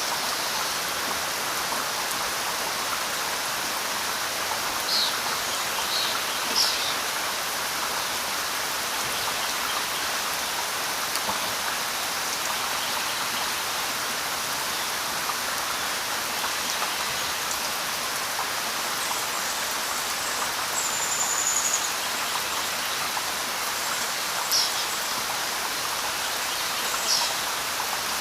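Steady rainfall, an even hiss with no pauses, with a few brief high-pitched sounds standing out over it here and there.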